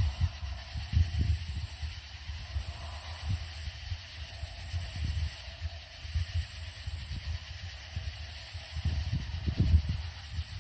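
Cicadas calling in high-pitched buzzes about a second long with short gaps between them, repeating in an even rhythm, over a low rumble.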